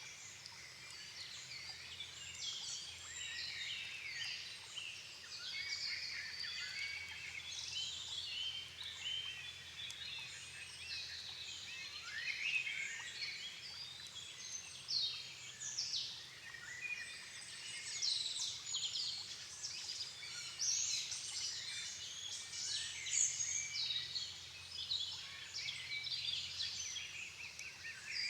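Dusk chorus of many songbirds singing at once: dense, overlapping whistles, trills and chirps with no pause.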